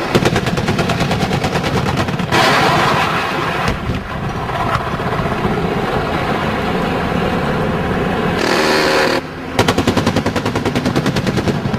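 Apache attack helicopter's 30 mm chain gun firing two long bursts of about ten rounds a second, one at the start and one near the end. Between the bursts there is steady helicopter engine and rotor noise.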